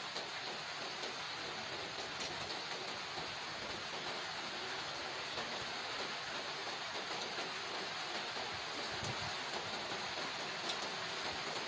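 Steady rain falling on paving and tree leaves, an even hiss with a few sharper drop ticks here and there.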